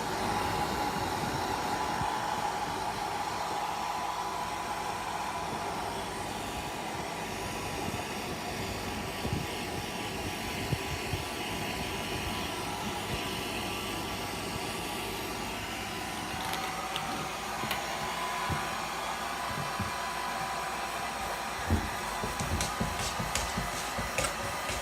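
Hand-held hair dryer blowing steadily, a rushing airflow with a steady whine. Near the end, a quick run of sharp clicks and taps sounds over it.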